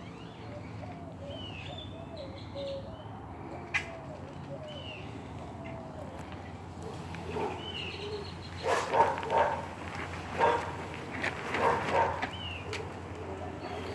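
Small dog barking in short bursts in the second half, with birds chirping.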